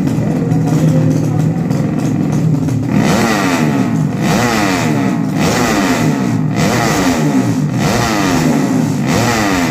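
Racing motorcycle engine running steadily, then revved repeatedly from about three seconds in: about five quick blips, each rising and falling in pitch about a second apart.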